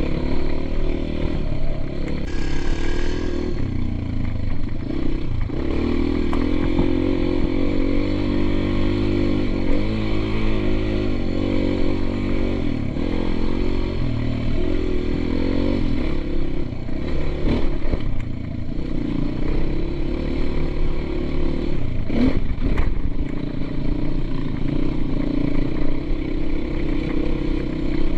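Motocross dirt bike engine running as it is ridden, its pitch rising and falling again and again with the throttle. There are two sharp knocks near the end.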